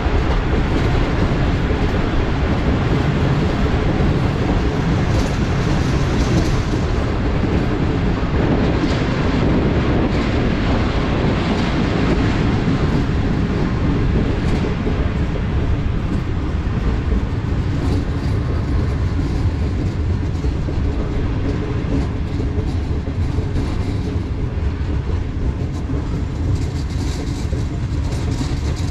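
Sir Syed Express passenger train running along the line, a steady rumble of wheels on the rails.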